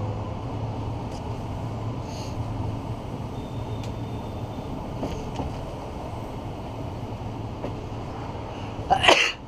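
Bernina Railway train running, heard at an open carriage window: a steady rumble with a low hum. Near the end there is a brief, loud rush of noise.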